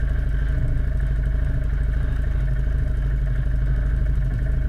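ATV quad bike engine running steadily.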